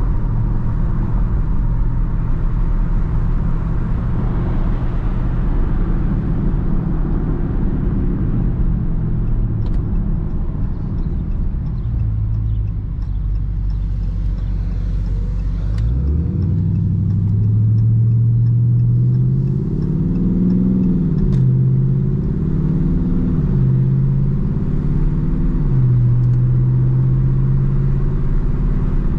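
Dodge Charger Daytona 392's 6.4-litre HEMI V8 while driving: a low steady drone at first, then about halfway through the engine note climbs sharply as the car accelerates, rising and dipping several times after that.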